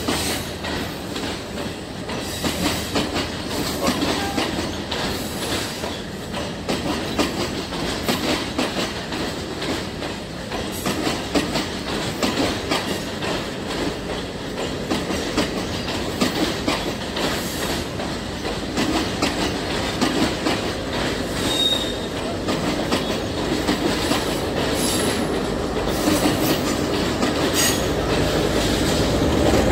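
Passenger train coaches rolling past over points and rail joints: a steady rumble of wheels on rail with rapid clicking, and a few short wheel squeals in the second half. The train grows louder near the end.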